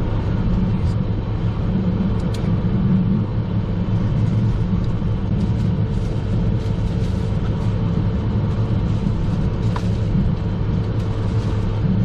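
Steady drone of a Learjet 45XR's cockpit in flight: turbofan engine and airflow noise with a constant low hum, and a few light clicks.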